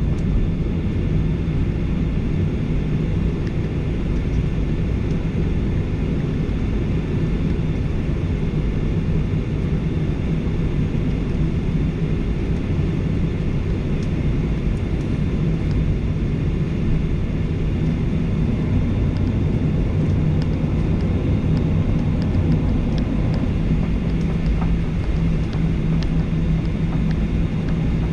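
Steady cabin noise inside a Boeing 737-800, with its CFM56-7B jet engines running at an even setting as a constant low hum and rush of air.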